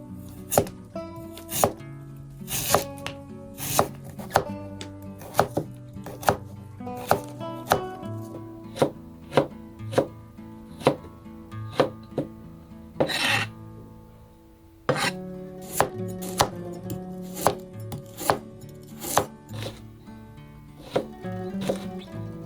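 A knife chopping on a cutting board in a series of sharp knocks, roughly one or two a second, with a short scrape about halfway through and a brief pause after it. Background music plays underneath.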